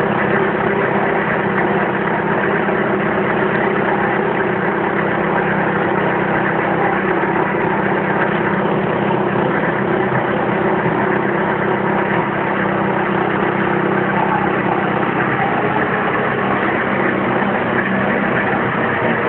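2002 Hyundai Accent's engine idling steadily.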